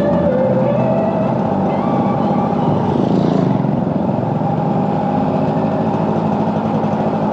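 Suzuki AX100 two-stroke single-cylinder motorcycle engine running with a steady, rapid firing pulse.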